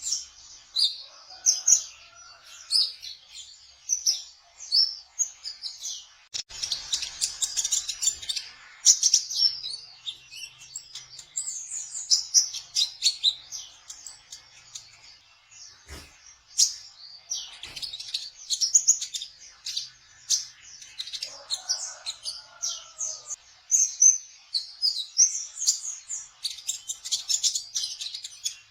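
Kolibri ninja sunbird singing a fast, high twittering song of short chirps in quick runs. A few sharp clicks sound along the way, and a lower call comes about three-quarters of the way through.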